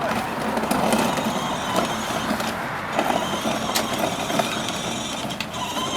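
Children's battery-powered ride-on toy car driving, its electric drive running steadily with the wheels rolling, starting as the pedal is pushed, with a few sharp knocks along the way.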